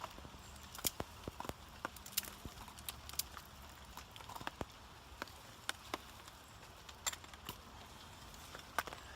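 Wood campfire crackling, with sharp irregular pops and snaps over a faint hiss.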